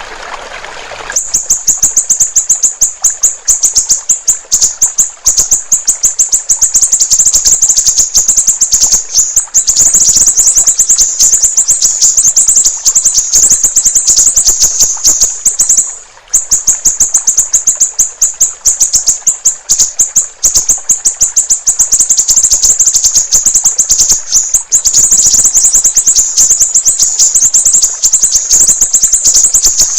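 Siri-siri bird song: a long, fast run of sharp, high chirping notes repeated many times a second, very loud, with a brief pause about halfway through. Trickling water is heard for about the first second, before the song begins.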